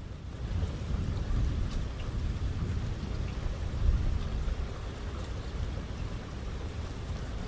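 Heavy rain falling steadily, with scattered drips, under a low rolling rumble of thunder that swells about half a second in and is loudest around four seconds.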